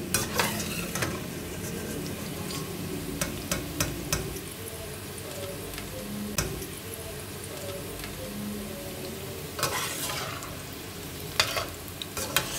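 Sliced bitter gourd (karela) frying in hot oil in a steel pot, sizzling steadily. A slotted spatula stirring the slices clicks and scrapes against the pot now and then, most around the last few seconds.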